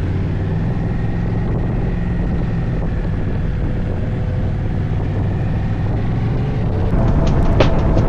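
Motorcycle engine running at a steady cruise under wind noise. About seven seconds in, higher tones and a run of sharp ticks come in on top.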